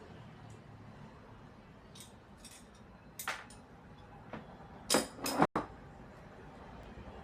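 A few light clinks and knocks, the two loudest close together about five seconds in, followed by an instant where the sound cuts out.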